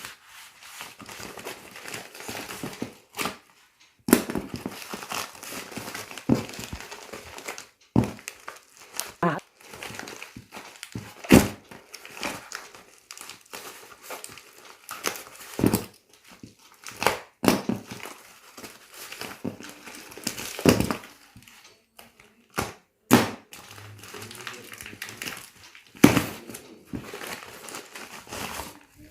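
Packaging being crumpled and torn open by hand: irregular crinkling with sharp crackles and snaps.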